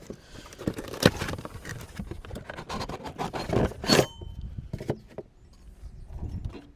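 Handling of an air filter element and its housing: rustling, scraping and clicking, with two sharper knocks about one second and four seconds in.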